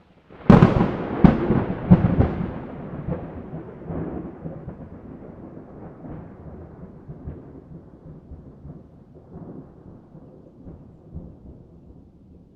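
A clap of thunder: a sudden sharp crack about half a second in, a few more cracks over the next two seconds, then a long rolling rumble that slowly fades away.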